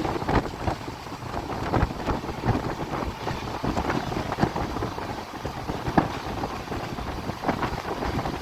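Passenger train carriage in motion: a steady running rumble with irregular rattles and knocks, and wind buffeting the microphone.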